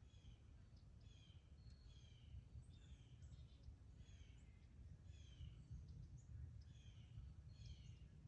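Faint bird calls, short falling chirps repeated roughly once a second, over a steady low outdoor rumble.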